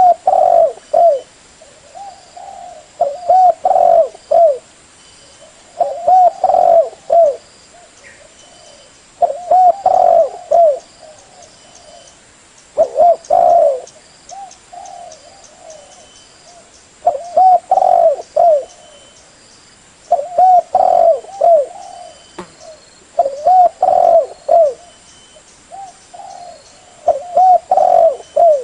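Spotted dove (terkukur) cooing: a phrase of several quick, hooked coos, repeated about every three seconds, nine times.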